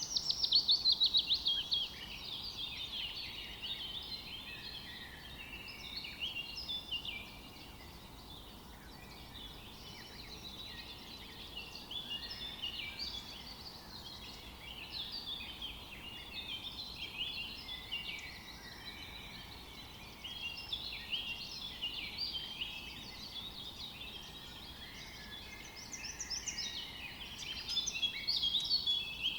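Many small birds chirping and singing at once, a dense chorus of quick, high notes. A fast run of falling notes is loudest in the first couple of seconds, with another loud burst near the end.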